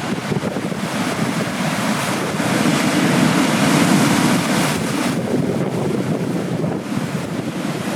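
Ocean surf breaking and washing on the shore, with wind buffeting the microphone. The surf swells louder between about two and a half and four and a half seconds in, then eases.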